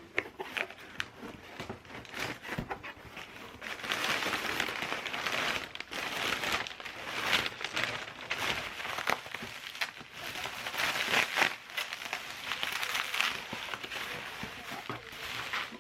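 Rustling and crinkling, coming in waves with many small clicks, like material being handled and crumpled.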